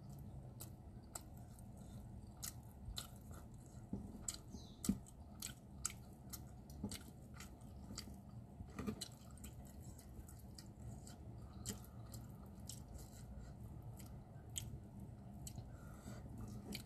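A person chewing a mouthful of rice and salted tuna with sambal, eaten by hand, with many small sharp clicks. A few louder clicks come about four to five seconds in and again near nine seconds, over a steady low hum.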